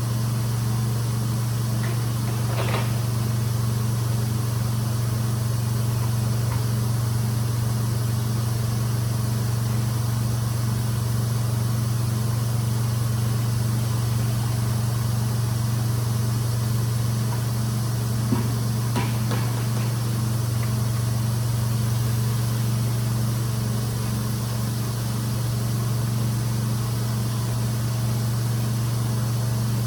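Rug cleaning machine's motor running with a steady, even low hum, with a few faint squeaks and a single sharp click about 18 seconds in.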